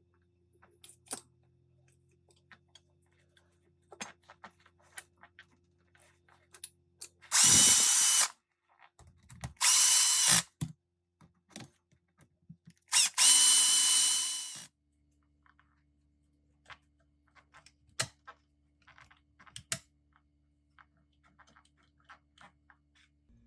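Handheld power tool motor run in three short bursts of about a second each, the last a little longer and winding down as the trigger is released. Light clicks and taps of small metal parts being handled fall before, between and after the bursts.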